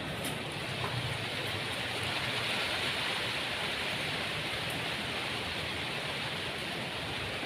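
Steady rainfall, an even hiss of rain with no let-up.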